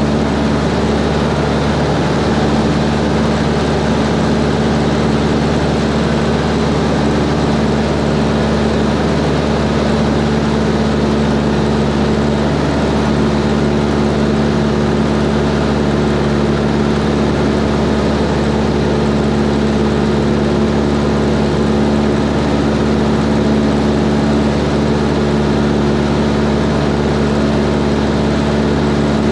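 Cessna 140's four-cylinder piston engine and propeller running at a steady, unchanging power, loud and constant throughout.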